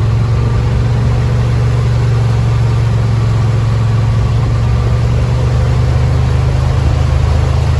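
Engine of a Yamaha Wolverine side-by-side running steadily at low speed, a constant low drone.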